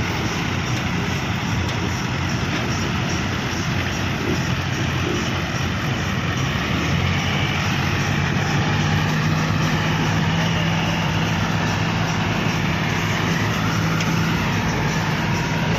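Farm tractor diesel engines running steadily, with a low engine note growing stronger and holding from about halfway through, as the tractors work to pull a stuck tractor out of sand.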